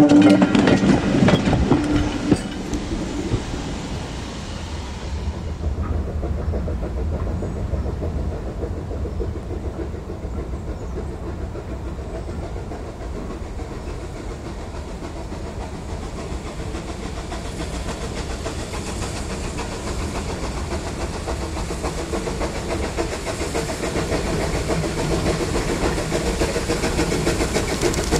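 A train running on the line, loud for the first few seconds as it goes past, then fading to a low steady rumble that slowly grows louder again toward the end.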